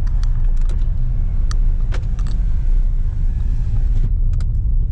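Car running, heard from inside the cabin: a steady low rumble with a few short clicks and rattles scattered through it.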